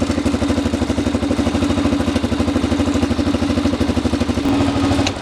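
ATV engine idling steadily with an even, fast pulsing, likely running in gear to turn the chain while it is being lubed.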